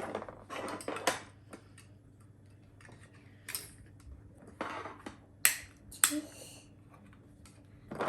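Plastic LEGO DUPLO bricks clicking and knocking as they are handled and pressed together. The sharp clicks are scattered and irregular, with quiet gaps between them.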